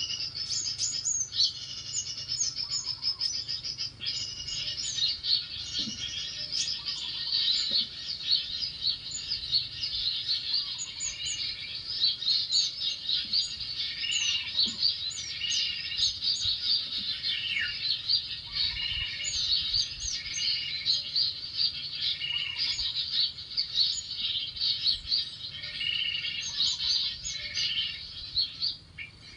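Small birds chirping and calling busily over one another in a dense chorus of quick high chirps. Through it, a lower call repeats every couple of seconds.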